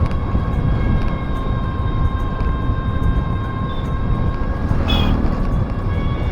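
Passenger train running: a steady rumble of wheels on the track with faint steady whines above it, and a brief high-pitched sound about five seconds in.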